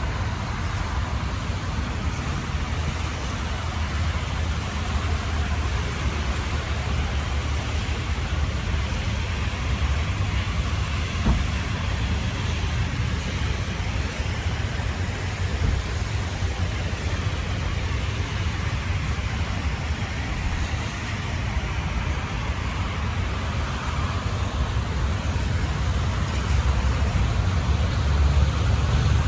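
Steady low rumble of a vehicle on the move, engine and road noise heard from inside, growing a little louder near the end.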